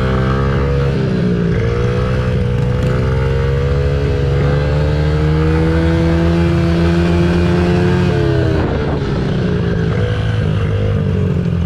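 Dirt bike engine running under throttle. Its pitch climbs slowly for several seconds, then drops off about eight seconds in.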